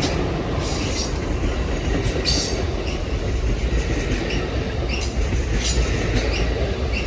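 Amtrak Coast Starlight passenger train rolling past: a steady rumble of wheels on the rails, broken by irregular clicks and brief squeals from the wheels.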